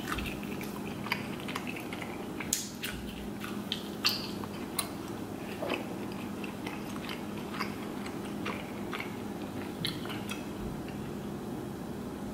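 Close-miked chewing of lobster meat, with many soft wet clicks and smacks of the mouth, over a steady low hum.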